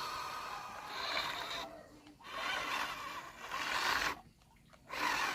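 Small electric motor and gearbox of a toy RC truck whirring in short runs, cutting out twice.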